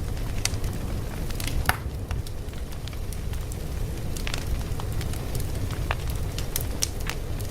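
Fire crackling: a steady low rumble of burning with irregular sharp pops and snaps from the wood.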